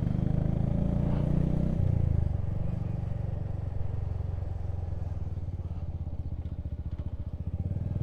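Motorcycle engine running on the move, its note settling into a slower, distinctly pulsing beat about two seconds in.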